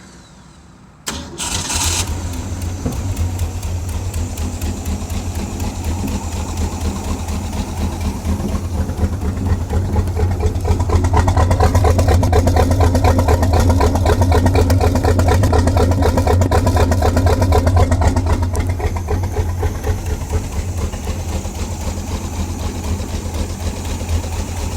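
Modified Ford 351 Windsor V8 marine engine in a 1992 Moomba Boomerang ski boat, built with a performance cam, Holley double-pumper carburettor and MSD ignition. It is started: it catches about a second in and then runs steadily with a heavy low pulse. It runs somewhat louder from about ten seconds in, then settles back near the end.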